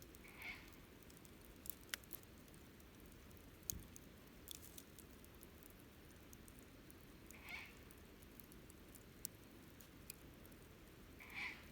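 Low wood campfire crackling: scattered sharp pops and snaps of burning wood, with three brief, soft, higher-pitched sounds spread through it.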